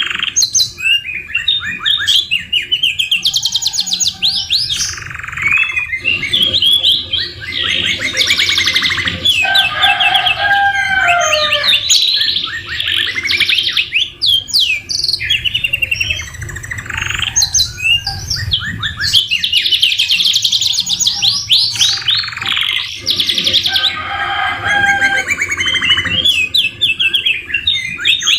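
Domestic canaries singing without pause: fast rolling trills, rapid repeated notes and whistled glides, their song filled with phrases copied from the white-rumped shama.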